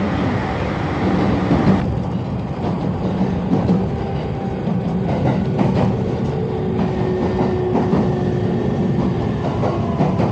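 Train running on rails: a steady rolling rumble with faint, steady whining tones and a few wheel clicks. The higher hiss drops away about two seconds in.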